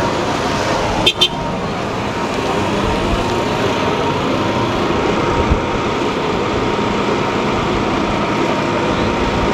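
Steady noise of vehicle engines running, with two quick high-pitched beeps about a second in.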